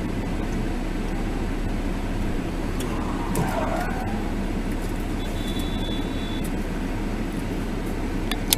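Steady engine and road noise inside a moving car, picked up by a dashcam, with a few sharp clicks near the end.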